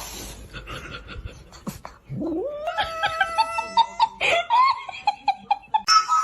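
A domestic cat yowling: a long drawn-out call that rises in pitch and holds, then a shorter second call, followed by a run of short quick notes.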